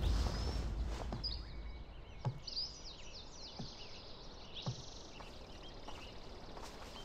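Birds chirping in short repeated calls, with a few soft low thuds about a second apart.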